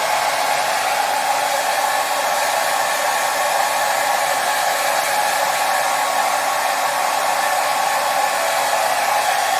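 Hair dryer blowing steadily: an even rush of air with a faint steady motor tone, unchanging in level.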